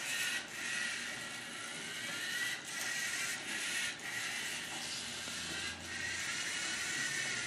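LEGO Mindstorms NXT mini sumo robot running, its servo motors and gear trains whirring steadily, with a few brief dips where the motors pause or change.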